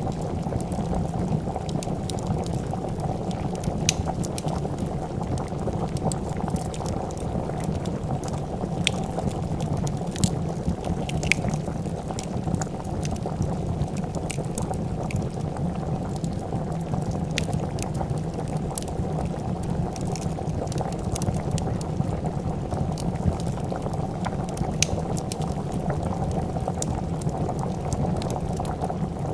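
A pot of soup boiling steadily with a low, dense bubbling, with scattered sharp crackles and pops from a wood fire.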